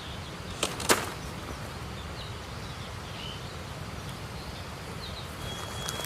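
Steady rushing of a river, with two sharp clicks or knocks about a second in and a few faint bird chirps.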